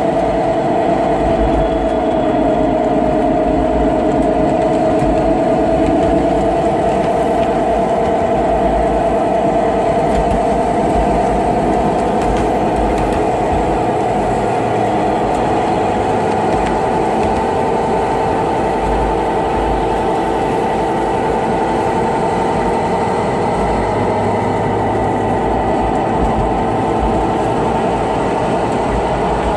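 Model Queensland Rail 2100 class locomotive running on the track, a steady whine over a low rumble.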